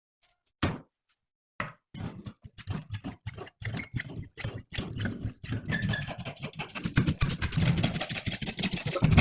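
Restored antique chaff cutter being worked: its mechanism clicks and rattles in quick strokes that come faster and louder as it goes.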